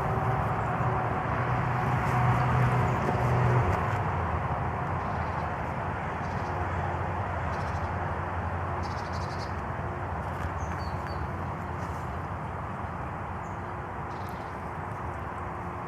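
Steady outdoor background noise with a low rumble that eases after about four seconds, and a few faint bird chirps about two-thirds of the way in.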